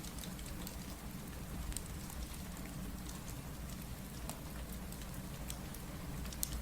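Steady rain, with a low rumble underneath and scattered sharp pops and crackles from a wood fireplace, one louder pop near the end.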